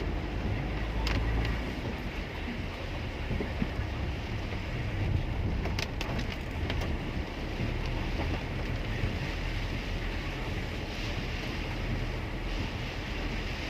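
Steady road noise inside a taxi driving in heavy rain and wind: a low engine and tyre rumble under an even hiss, with a few light clicks.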